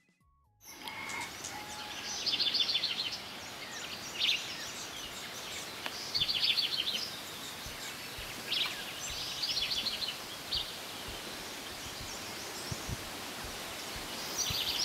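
Birds calling in tropical forest. Rapid chattering runs of high notes, each about a second long, come several times, with short single calls between them, over a steady outdoor background hiss. The sound starts abruptly under a second in.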